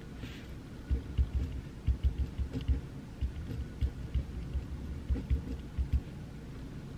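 Pencil writing on paper on a desk: irregular soft low taps through the desk with faint scratching of the lead.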